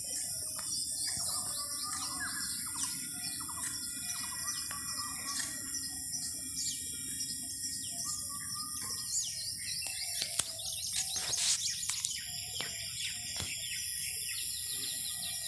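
Birds chirping and calling repeatedly, many short quick notes, over a steady high-pitched hum. A few sharp clicks come about two-thirds of the way through.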